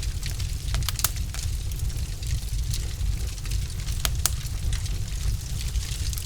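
Wood fire in a fireplace burning steadily with a low rumble, and sharp crackles and pops from the logs several times a second, a few louder snaps among them.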